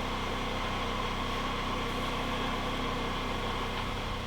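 A steady machine hum, even in level, with no knocks or other events.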